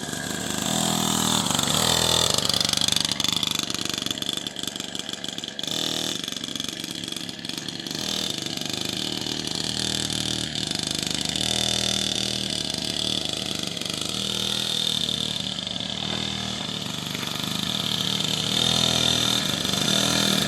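Dirt bike engine running as the bike is ridden, its loudness swelling and easing throughout.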